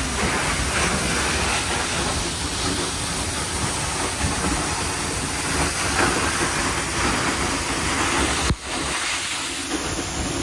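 Waterfall: a steady, dense rush of falling water, briefly broken by a short drop about eight and a half seconds in.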